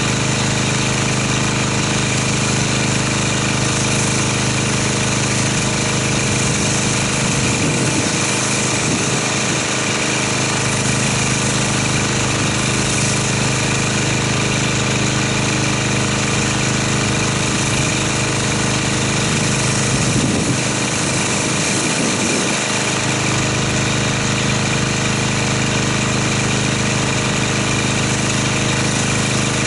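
Pressure washer running steadily while rinsing soap off a car: a constant motor hum under the hiss of the water spray.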